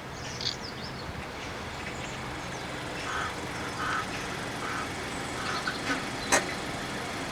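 Steady outdoor background noise with birds calling: a run of four or five short calls a little under a second apart in the middle, and a single sharp click near the end.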